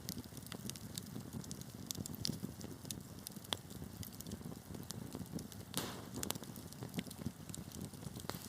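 Wood fire burning in a fireplace: a steady low rumble of flames with irregular sharp crackles and pops from the burning wood, one short hissing flare about six seconds in.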